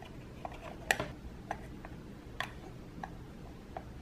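Scattered light clicks and taps of fingers and nails on a small hard plastic toy toilet as stickers are pressed onto its lid. The clicks come at irregular moments, about eight in all, the sharpest about a second in.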